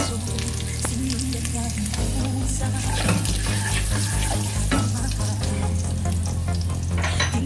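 Cumin seeds sizzling steadily in hot oil in a pot, stirred with a wooden spoon. Background music with a steady bass line plays underneath.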